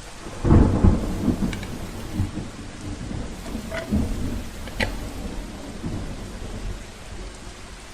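Rain falling steadily with rolling thunder: the rumble is heaviest about half a second to a second in, then rolls on more quietly, with a few sharp drip-like ticks in the rain.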